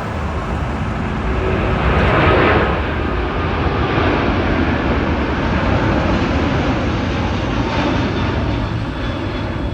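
Emirates Airbus A380's four jet engines at takeoff thrust: a loud, continuous roar that swells to its loudest about two seconds in.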